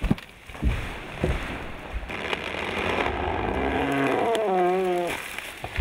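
Logging machinery running in a clearcut, with several heavy knocks in the first two seconds and a wavering engine note in the second half. A sharp crack lands at the very end.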